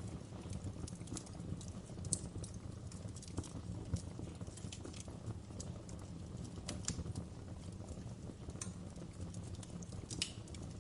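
Wood fire burning, with irregular sharp crackles and snaps over a low steady rumble of the flames. The loudest pops come about two seconds in, about four seconds in and near the end.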